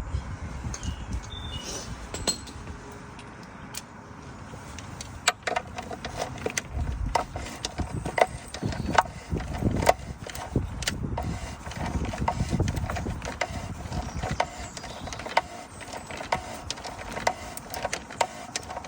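Hand tools being handled on the oil filter housing: irregular metallic clicks and knocks that start about five seconds in and continue, over a low uneven rumble.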